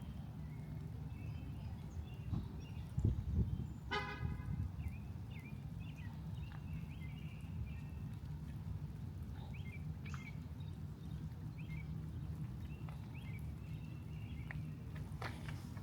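Outdoor ambience: a steady low rumble with small birds chirping over and over. A few low thumps come just before a single short toot, like a horn, about four seconds in.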